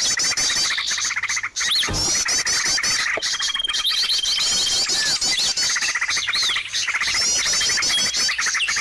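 Bird-lure recording of many small songbirds calling over one another: dense, rapid runs of high chirps and short whistled glides, with a held high whistle in the middle.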